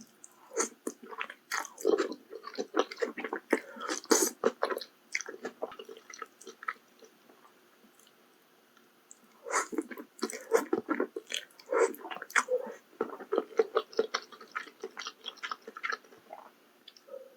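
Close-miked chewing of malatang, many small wet mouth clicks in two bouts several seconds long, with a pause of a few seconds between them.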